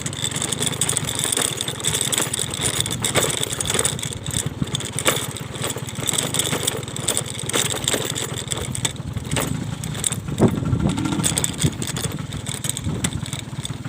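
Motor scooter engine running steadily while riding, with wind buffeting the microphone in a sandstorm.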